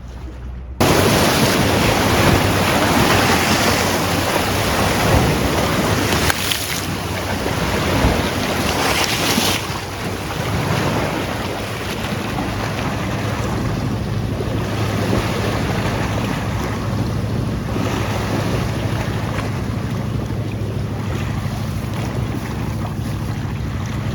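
Wind buffeting the microphone over the wash of sea waves, starting suddenly about a second in and then running steadily.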